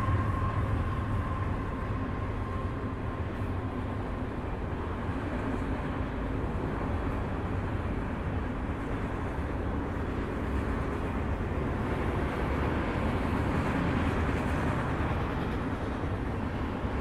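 Long freight train of autorack cars rolling past, a steady rumble of wheels on rail. The locomotive's horn trails off about a second in.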